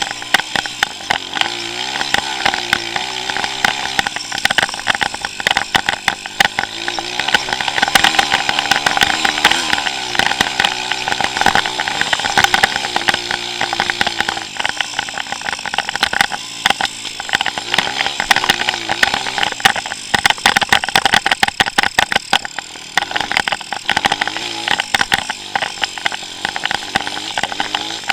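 A 140cc pit bike's single-cylinder four-stroke engine, ridden hard: revving up and dropping back again and again, with many sharp crackles and knocks over the engine sound.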